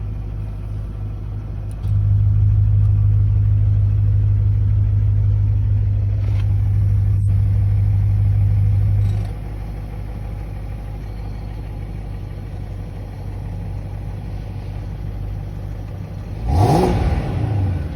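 BMW engine idling through a valve-controlled adjustable exhaust. About two seconds in, the idle turns markedly louder and deeper as the exhaust valve opens, then drops back to the quieter note around nine seconds in. Near the end there is one quick throttle blip, rising and falling.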